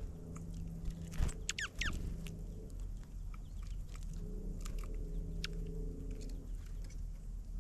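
Small birds pecking and scratching at seed, with scattered light clicks and taps, and a quick run of three or four high chirps about a second and a half in. A steady low hum lies under it all.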